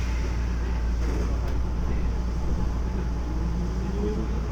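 Interior running sound of a Keisei 3400 series electric train with chopper control: steady low rumble of the car under way, with a motor whine that begins rising in pitch near the end as the train picks up speed.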